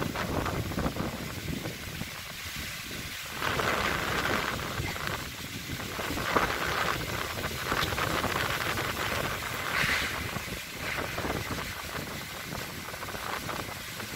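Strong, gusting wind tossing trees and leaves, with wind buffeting the microphone; it swells and eases in gusts.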